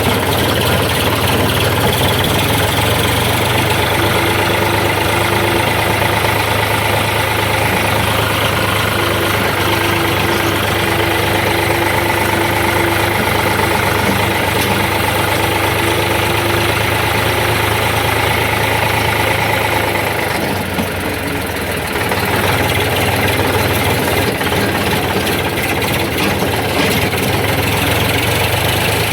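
Tractor diesel engine running steadily at an even speed. It dips briefly about twenty seconds in, then goes back to the same steady running.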